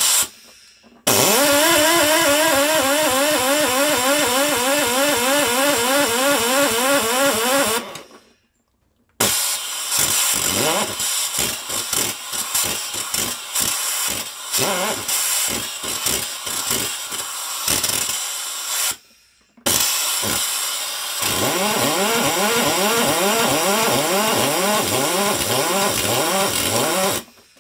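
Electric drill spinning over a tight lawnmower engine in three long bursts, its whine wavering rapidly up and down as it labours; the engine does not catch.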